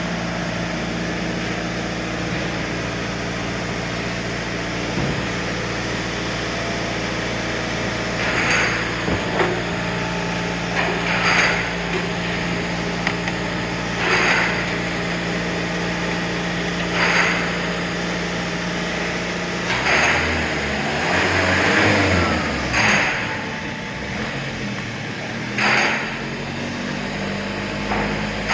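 Volkswagen Passat B3's 2.0-litre four-cylinder 2E engine idling steadily, its hum changing and turning uneven about two-thirds of the way through. Short clinks or knocks come every two to three seconds over it in the second half.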